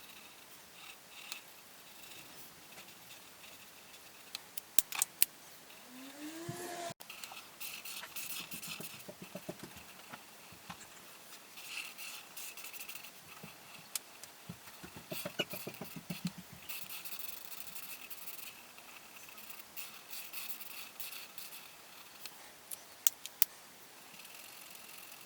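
Coloring strokes scratching on paper, in quick back-and-forth runs, with a few sharp clicks and one short rising squeak.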